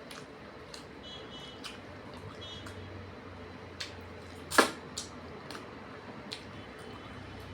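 Mouth sounds of eating rice and fish curry: chewing and lip-smacking with scattered soft clicks, and one sharper click about four and a half seconds in.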